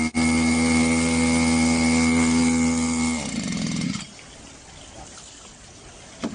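Small engine of a floating engine-driven water pump running at a steady speed, then stopping abruptly about three seconds in, leaving a much quieter hiss with a click near the end.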